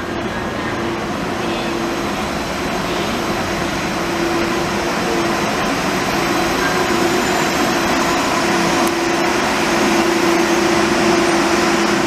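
Light rail train running: an even rumbling noise with a steady hum that comes and goes, slowly growing louder.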